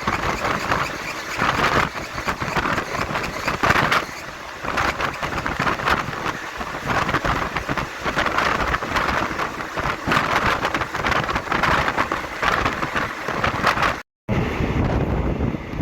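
A passenger train running along the line, a steady rushing noise of wheels on rail and air that swells and eases every second or two. The sound drops out for a moment near the end and comes back with more low rumble and wind on the microphone.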